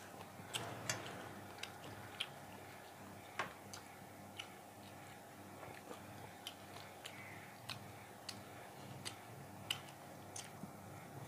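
A person chewing food with the mouth closed, with irregular sharp wet clicks and smacks from the mouth, about one or two a second.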